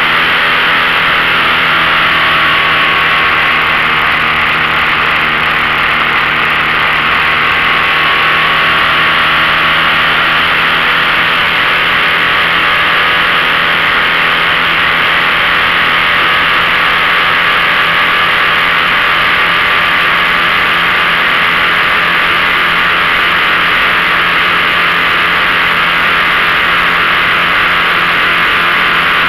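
15 hp outboard motor running steadily under way, pushing a small boat, with a steady rushing noise over it.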